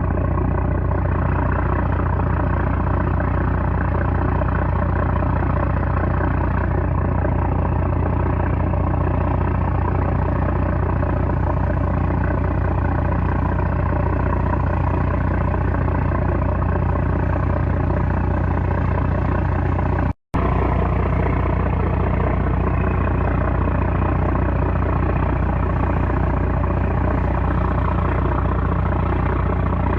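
Small trawler's 330-horsepower engine running steadily under load, a loud, even drone with a deep hum. The sound cuts out for an instant about two-thirds of the way through, then carries on unchanged.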